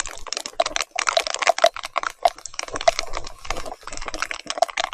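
Rapid, irregular clicking and spattering of heavy rain and mud striking a mountain bike and the camera on it.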